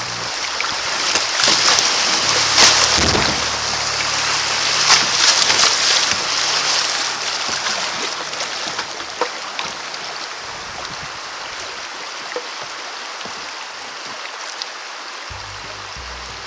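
Rushing creek water with splashing around a kayak, loudest in the first half and then steadier and quieter.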